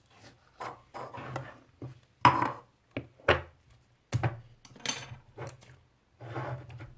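Hands squishing, pressing and stretching pink slime: a run of irregular short squelches and crackles, the loudest a little past two seconds in.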